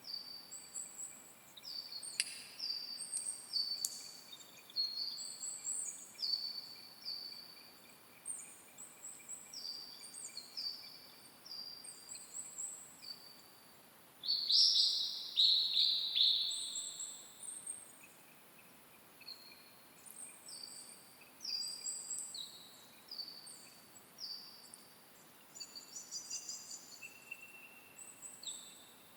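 Forest birds singing in the early morning: many short, high, falling notes repeated over and over by several birds. A louder, nearer burst of song comes about halfway through.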